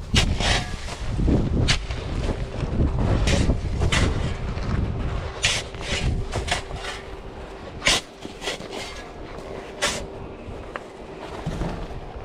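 Irregular strikes and scrapes of a tool breaking up an icy snow cornice, about a dozen sharp knocks at uneven intervals over a low rumble of wind on the microphone.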